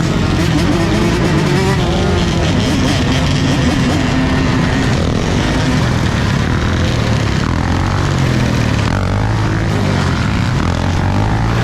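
Many dirt bike engines running together, several pitches overlapping, with revs rising and falling in the second half.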